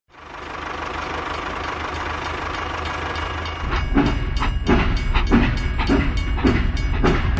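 Steady mechanical rumble that fades in and grows louder about three and a half seconds in. A rhythmic clatter of knocks, about two a second, joins it.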